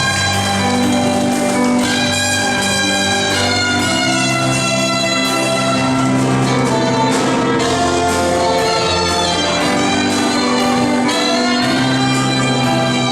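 Trumpets and other brass playing a fanfare in long held chords over a low bass line, the chords changing every second or two.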